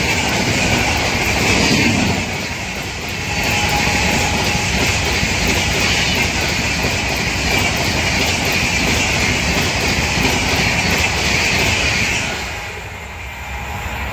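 Train running past at speed: a loud, steady rush of wheels on the rails that drops away about twelve seconds in.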